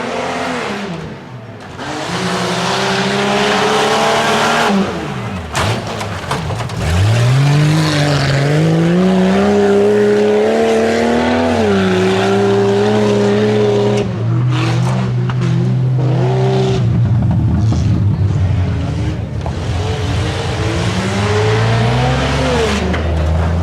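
Off-road competition truck engine revving hard on a tuff truck course, its pitch repeatedly climbing and falling as the driver gets on and off the throttle. A few sharp knocks sound about five to seven seconds in.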